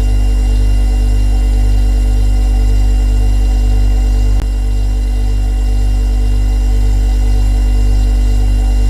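Refrigerator running with a steady low electrical hum and a set of fainter steady tones above it. A single click comes about halfway through, after which the hum is slightly quieter.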